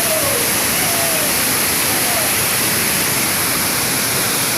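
Waterfall rushing in a steady, loud, even roar of falling water close to the microphone.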